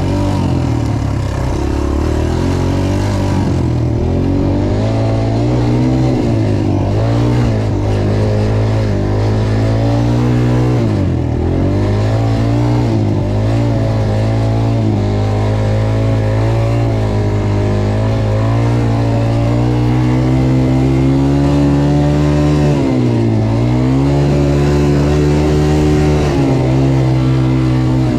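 Dirt bike engine running under throttle while riding, its pitch holding steady, then dropping and climbing back a few times, most clearly about a third of the way in and again near the end.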